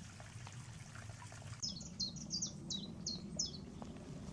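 A small bird calling: a quick series of about seven short, high chirps, each dropping in pitch, starting about a second and a half in, over a low steady background rumble.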